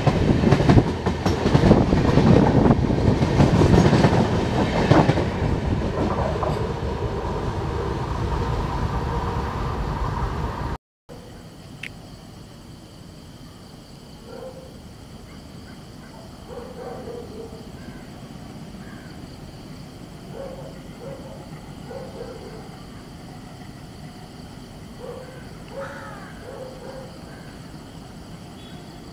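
Passenger train coaches passing close at speed, a loud, dense clatter of wheels over rail joints that begins fading about five seconds in. After an abrupt cut about eleven seconds in, a much quieter steady rumble from a distant approaching diesel locomotive, with crows cawing several times.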